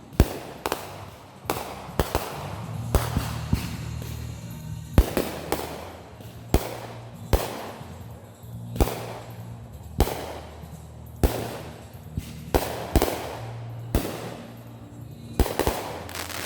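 Consumer fireworks going off in a steady string, about one sharp bang a second, each fading out quickly. Music with a steady bass plays underneath.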